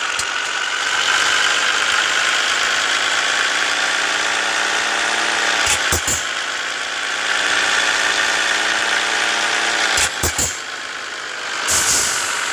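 Scania S 450 truck's diesel engine running, its pitch drifting slowly up and down, with a few sharp clicks about six seconds in and again about ten seconds in.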